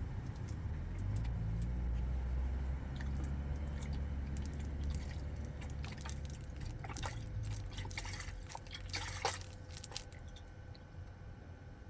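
Soy milk being poured from a carton into a pot of hot broth, liquid splashing and dripping, followed by a few light clicks and taps, loudest about nine seconds in.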